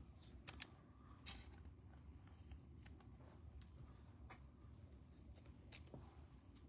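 Near silence with faint, scattered clicks and light rustles of trading cards being handled.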